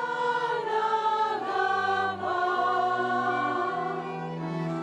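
Choir singing slow, sustained chords, the voices moving together to a new chord every second or so.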